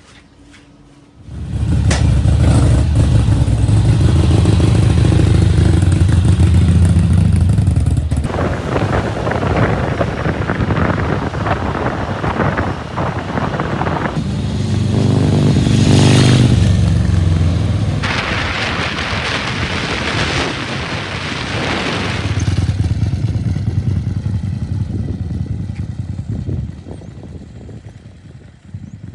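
Harley-Davidson Forty-Eight's 1200 cc V-twin engine, coming on suddenly about a second and a half in and running, then under way with wind rush, its pitch swelling and falling back near the middle as it revs. It fades away near the end.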